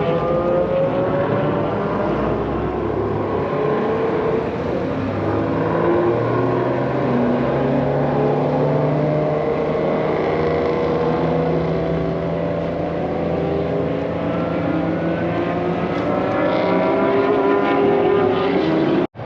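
Several race and sports car engines running at speed on a road course, their pitch rising and falling and overlapping as the cars accelerate, shift and pass. The sound cuts off abruptly near the end.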